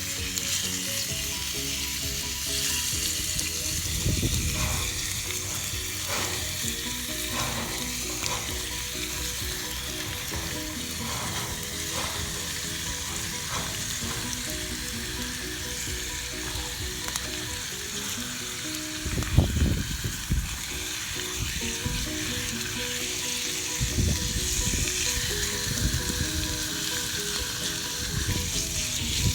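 Steak sizzling steadily in a Dutch oven over a campfire, with a few low thumps about two-thirds of the way through.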